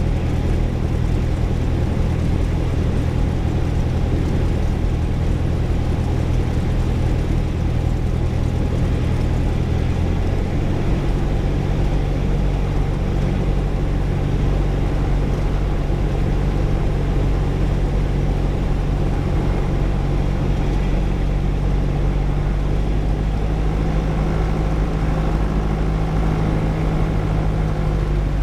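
Light airplane's engine running steadily on final approach for a touch-and-go, its note shifting about ten seconds in.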